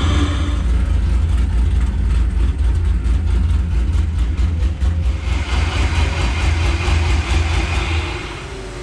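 A car engine running loudly, a deep steady rumble that eases off near the end.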